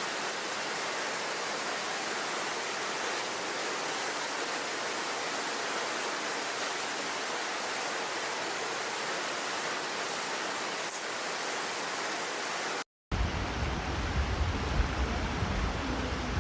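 Steady rushing water, an even hiss with no distinct events. About 13 seconds in the sound drops out for a moment and cuts to a different recording with a heavier low rumble and an uneven level.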